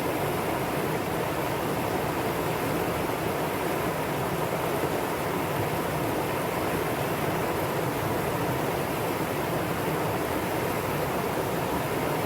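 Mountain stream water rushing over rocks in a valley: a steady, even rush with no breaks.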